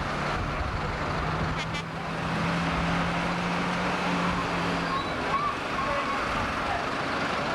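Competition pulling tractor's engine running hard during a pull: a steady drone that rises slightly after about a second and fades about five seconds in, over a dense wash of noise.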